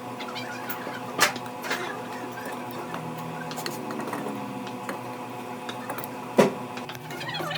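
Workshop machine running with a steady electric hum, with light scattered clicks and two sharp knocks, one about a second in and one near the end.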